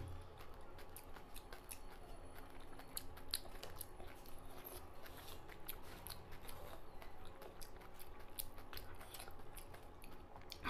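Chewing crisp panipuri (golgappa) shells: a steady run of many small crunchy clicks and crackles.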